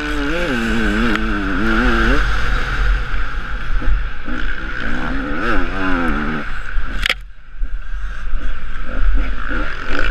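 Husaberg TE 300 two-stroke enduro motorcycle engine being ridden hard over rough ground, its revs rising and falling repeatedly, heard from a helmet-mounted camera with a heavy low rumble. About seven seconds in the throttle is briefly shut, with a sharp click, before the engine picks up again.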